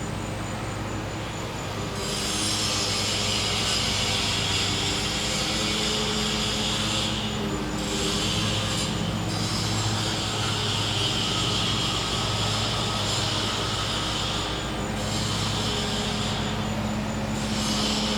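Gas-powered generator humming steadily, with a loud high-pitched buzz that starts about two seconds in and breaks off briefly several times.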